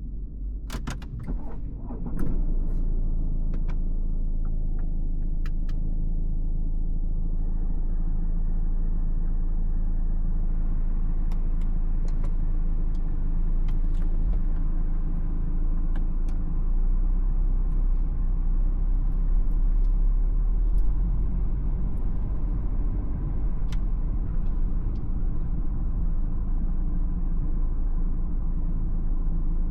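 Cabin sound of a BMW X4 xDrive20d with its four-cylinder diesel: a few sharp clicks in the first two seconds, then from about two seconds in a steady low rumble of engine and road noise.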